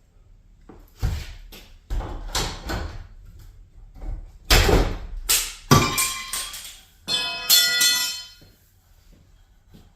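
Metal garage door parts being handled and pulled apart: a series of clanks, bangs and scrapes, then a piece of metal ringing for about a second and a half near the end.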